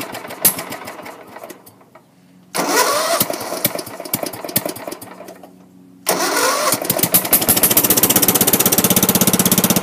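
A 1996 Craftsman lawn tractor's engine on a cold start: it runs down and quits, fires again about two and a half seconds in and fades out, then catches about six seconds in and settles into a steady, evenly pulsing run.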